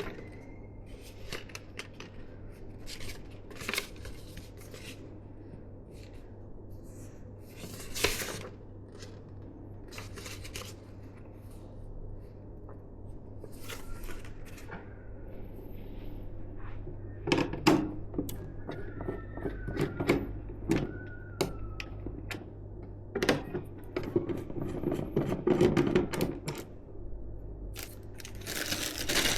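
Hands handling computer parts and their packaging: scattered small clicks, taps and light knocks of plastic and metal, coming thicker and louder over the last third.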